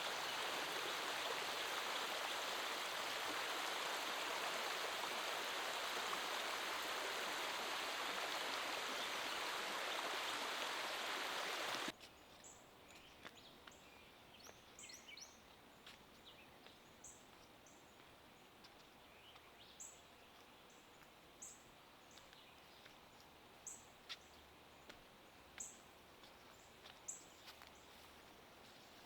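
Steady rushing of falling creek water that cuts off abruptly about twelve seconds in. It gives way to a quiet background in which a bird gives short, high chirps, repeating roughly every second and a half.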